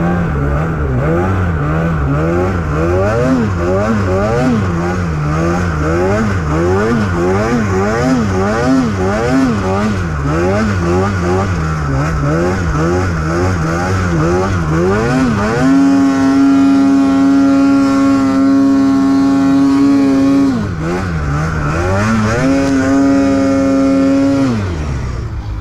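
Snowmobile engine worked hard through deep snow: its revs rise and fall in quick throttle blips about once a second, then it is held at high, steady revs for several seconds. The revs dip briefly about 20 seconds in, climb again, and drop off near the end.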